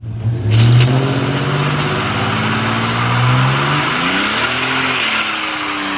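Vehicle engine running hard under acceleration, its pitch climbing steadily, then dropping and climbing again about four seconds in.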